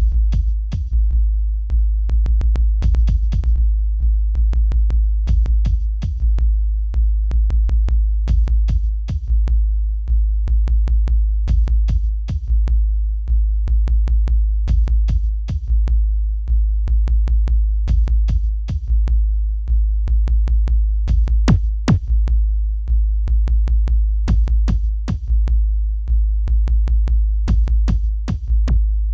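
Instrumental electronic beat on a drum machine: a deep held bass under dense, sharp clicking percussion, with a short high hiss like a shaker or open hi-hat coming back about every three seconds.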